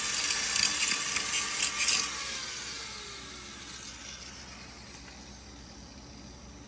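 Power grinder working the steel weld metal, blending the welds smooth. It cuts off about two seconds in and its pitch falls as it spins down.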